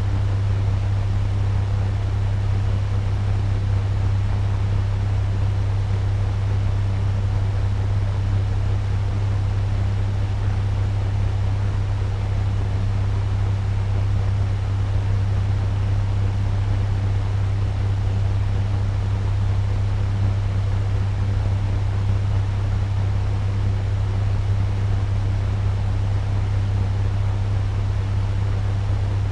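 Turbo fan running steadily at medium speed: an even rush of moving air over a strong, steady low hum.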